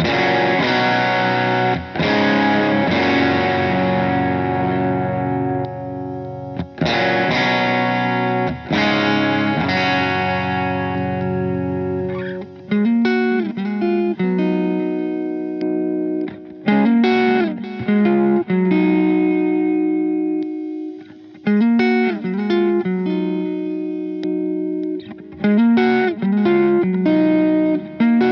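Electric guitar played through a Donner Dumbal Drive overdrive pedal set as a light-gain boost. It plays ringing strummed chords for about the first twelve seconds, then picked single-note lines and arpeggios.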